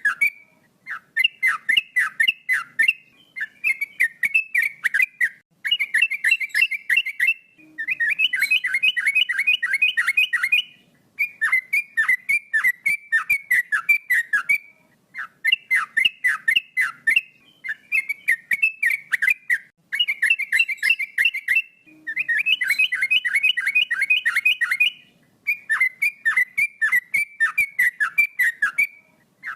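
Male yellow-vented bulbul singing in loud, rapid phrases of repeated whistled notes, each note gliding downward, with phrases of a second and a half to three seconds and short pauses between them.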